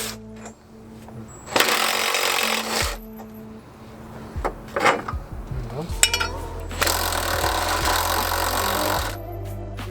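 Two long bursts from a power tool working on bolts, the second longer, over steady background music.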